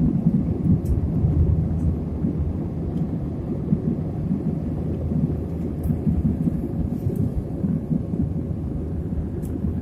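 Airliner cabin noise: a steady low rumble of engines and rushing air, with a few faint clicks.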